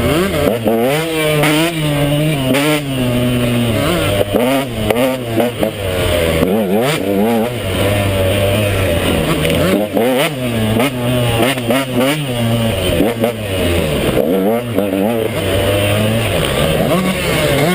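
KTM 150 XC two-stroke dirt bike engine being ridden off-road, its pitch rising and falling again and again as the throttle is opened and rolled off.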